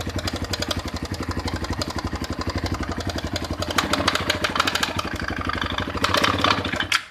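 Engine idling with an even, steady pulse of about six beats a second, a little louder around four and six seconds in, then cut off just before the end.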